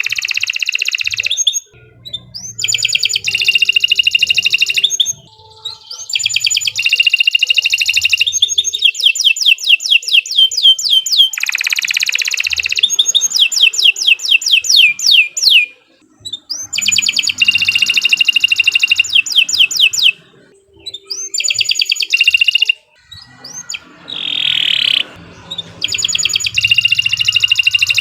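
Domestic canary singing a long song. It sings fast trills of quickly repeated notes in phrases lasting two to four seconds, with short breaks between them.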